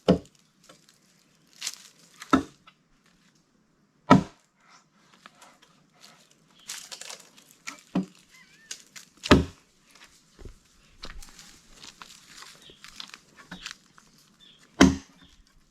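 Chopping blows struck into a firewood log being split, about seven sharp, irregularly spaced strikes, with faint rustling between them.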